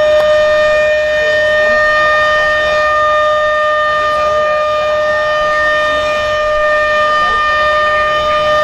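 A loud, steady signal horn held on one unchanging pitch, sounded to mark the opening after a countdown.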